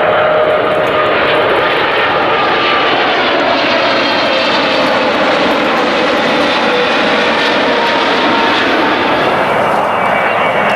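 Jet airliner's engines, loud and steady, with a rushing roar and several whining tones that slowly fall in pitch as the aircraft passes close by.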